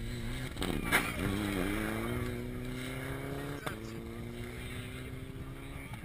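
Rally car engine pulling hard, its pitch climbing steadily with a gear change past halfway, after which it climbs again. A sharp knock about a second in.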